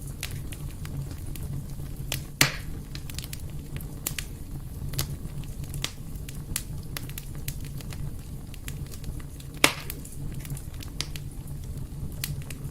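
Wood fire in a fireplace crackling over a low steady rumble, with frequent small snaps and two louder pops, one a couple of seconds in and one near the end.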